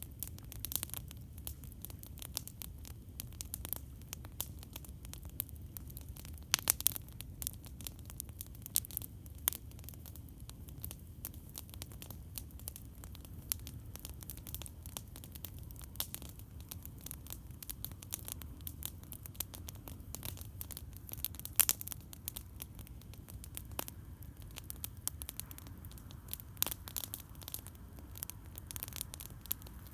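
Campfire crackling: wood snapping and popping in quick irregular clicks, with a few louder pops, over a steady low rumble.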